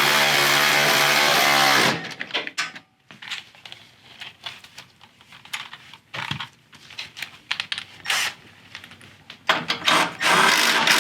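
A power tool running steadily for about two seconds while tightening fasteners on a motorcycle, then scattered clicks and knocks of hand tools and parts being handled, and the power tool running again near the end.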